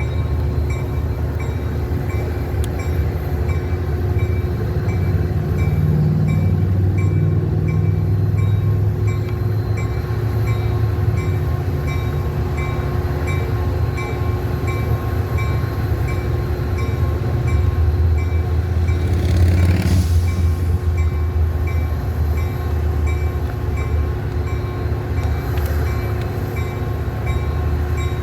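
Diesel train running by with a steady, heavy low rumble, while a bell dings at an even, quick pace. A brief hiss comes about twenty seconds in.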